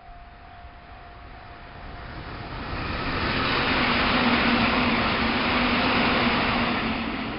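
Electric train passing at speed: wheel and rail noise swells over a couple of seconds, holds with a steady low hum, then begins to fade near the end.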